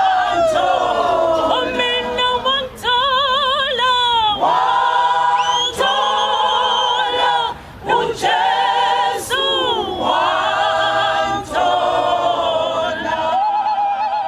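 Mixed choir singing a cappella in close harmony: sustained chords with wide vibrato, several of them sliding down in pitch as the phrases end.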